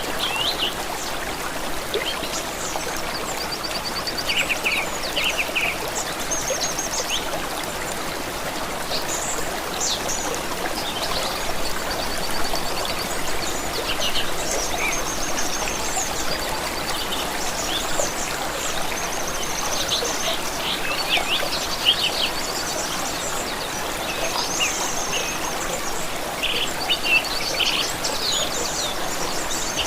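A stream running steadily, with several songbirds chirping and trilling over it throughout.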